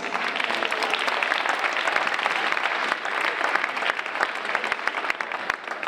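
Audience of schoolchildren applauding, a dense, steady round of clapping that begins abruptly and starts to thin out near the end.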